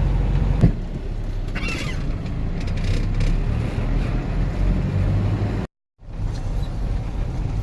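Steady low rumble of road vehicles in traffic, with a click under a second in and a short high pitched call about two seconds in. The sound cuts out completely for a moment near the six-second mark.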